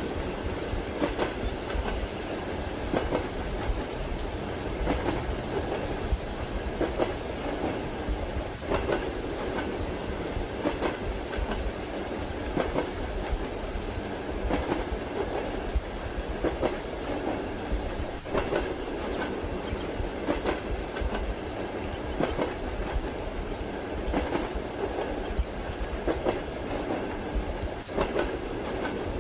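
Train running at steady speed, heard from inside a passenger car: a continuous rumble with the rhythmic clickety-clack of wheels over rail joints, a clatter roughly every two seconds.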